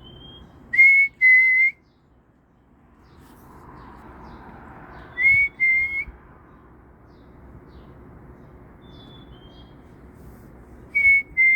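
A songbird close by sings a loud, clear two-note whistle three times, about five seconds apart; each note is a steady pure tone. Between these phrases a fainter, higher two-note whistle comes twice.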